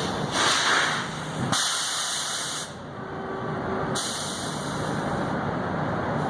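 Hissing of air in three bursts, the last one long, over the steady low rumble of trucks running at a truck stop.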